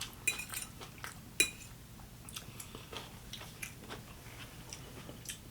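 A person chewing a mouthful of egg salad with green olives, with small wet mouth sounds and a few light clicks of a utensil; the sharpest click comes about a second and a half in.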